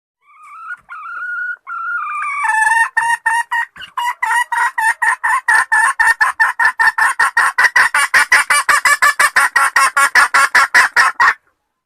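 Junglefowl hen calling: a few drawn-out whining notes, then a long run of rapid clucks, about five a second, which stops abruptly near the end. It is a hen's call to draw in a cock.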